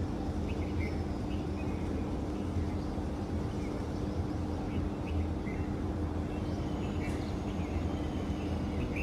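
Outdoor morning ambience: faint, scattered short bird chirps over a steady low hum.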